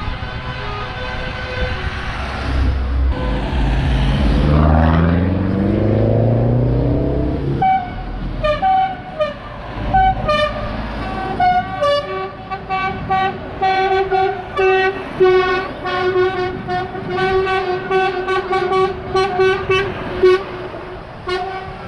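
Vehicle horns sounding from a convoy of trucks and vans: held horn notes at first, with a deep engine note rising as if revving from about three seconds in, then from about eight seconds many short toots in quick succession at several pitches.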